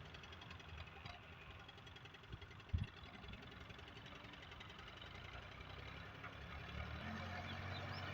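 Massey Ferguson 240 tractor's three-cylinder diesel engine running at a low, steady speed, with a single low thump nearly three seconds in. Near the end the engine note changes to a steadier, more even tone.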